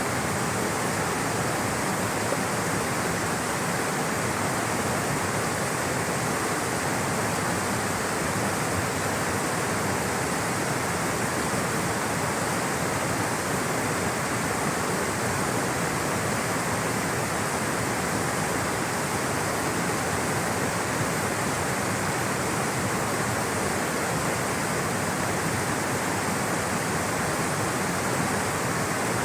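Rushing, flowing water, a steady even rush with no breaks or changes.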